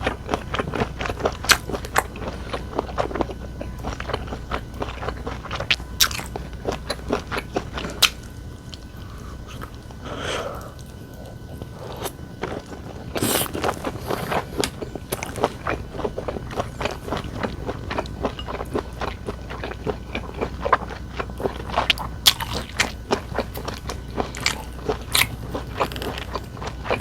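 Close-miked eating: chewing and biting food with many sharp mouth clicks and crunches, easing off for a few seconds near the middle.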